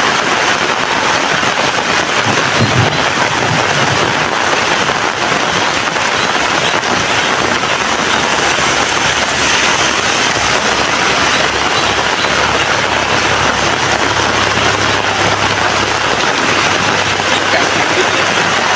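Heavy rain falling steadily, a dense, even hiss. A faint low hum joins in about halfway through.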